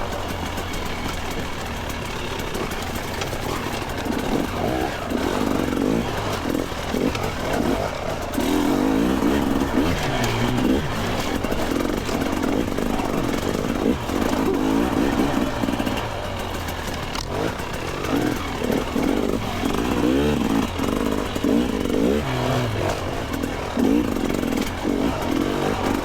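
Two-stroke dirt bike engine revving up and down in repeated short throttle bursts while the bike picks its way over rocky trail.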